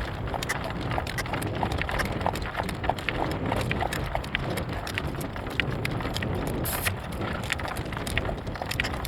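A driving horse's hooves clip-clopping in a quick, uneven run of beats at a trot, with strong wind buffeting the microphone as a low rumble underneath.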